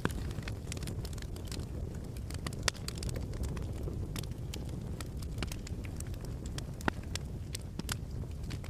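Wood fire crackling in a fireplace: a low steady rumble of flames with frequent irregular crackles and two louder pops, one about a third of the way in and one near the end.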